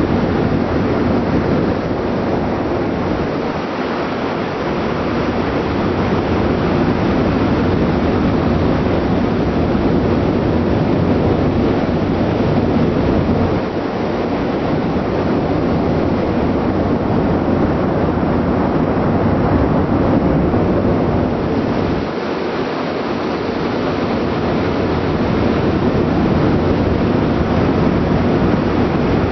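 Steady rumble of a ship under way: engine and exhaust-vent noise mixed with wind buffeting the microphone and rushing sea water, easing briefly a few times.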